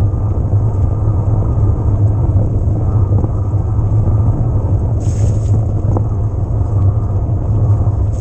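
Steady, loud rumble of wind buffeting the camera microphone, mixed with tyre noise from an electric mountain bike rolling along a trail, with a brief hiss about five seconds in.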